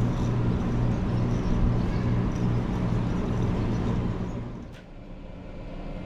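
Fujikyu Railway electric commuter train running with a steady low hum over a rumble. The sound fades and dies away about four and a half seconds in.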